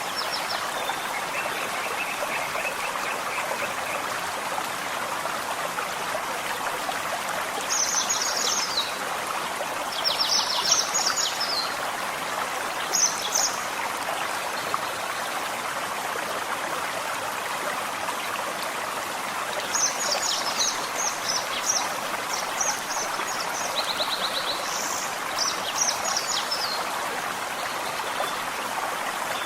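Forest stream running steadily, with small birds singing short, high chirping phrases over it several times, most busily in the last third.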